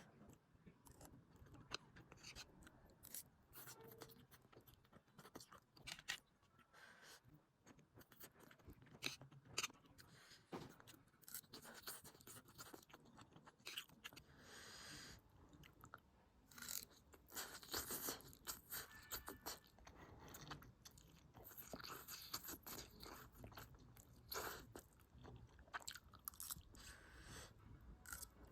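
A person chewing food close to the microphone: a steady run of short, soft, wet clicks and smacks, with a few louder crunches.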